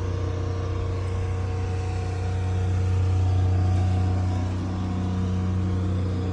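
A steady, even engine drone, a low hum with overtones, swelling slightly around the middle.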